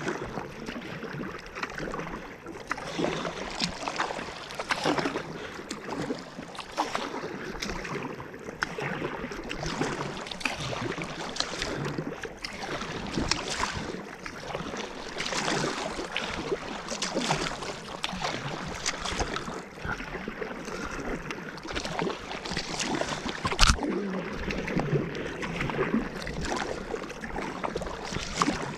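Kayak paddle strokes splashing in lake water, roughly one stroke every second and a half, over steady water noise around the hull. A single sharp knock late on is the loudest sound.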